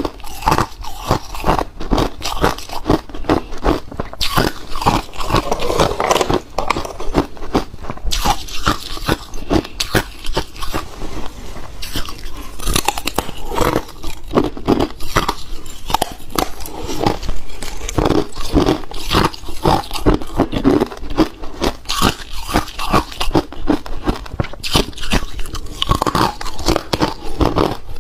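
Hard ice being bitten and chewed close to the microphone: continuous loud crunching, several crunches a second.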